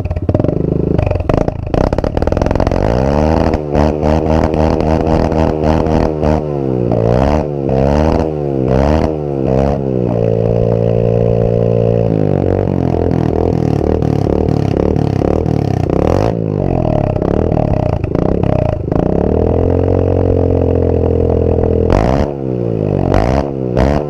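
Honda CRF125F's single-cylinder four-stroke engine revved again and again, the pitch rising and falling with each blip. The revs are held steady twice, about ten seconds in and again around twenty seconds. Sharp pops run throughout.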